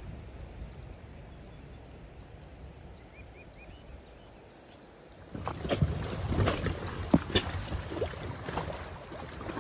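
Steady rush of river water, then about five seconds in louder irregular splashing and knocking of water against an inflatable raft moving on the river.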